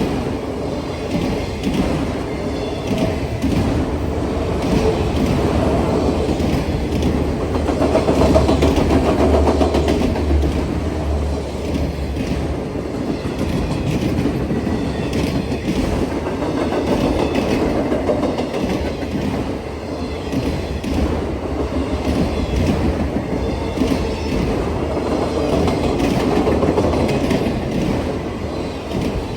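CSX train's cars rolling past at a grade crossing, a steady rumble with wheels clacking over the rail joints, swelling louder twice as cars go by.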